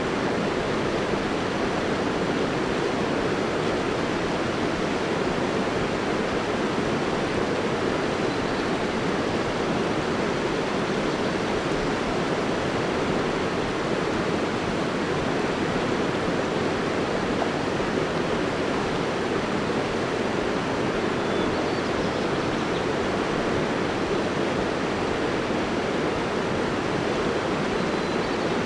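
River water flowing, a steady rushing sound that stays even throughout.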